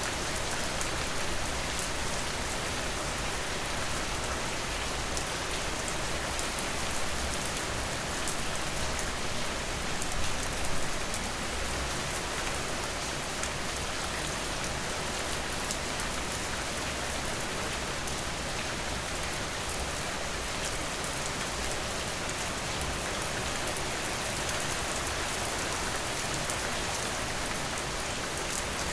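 Steady rain falling, an even hiss of dense drops, swelling slightly louder about ten seconds in.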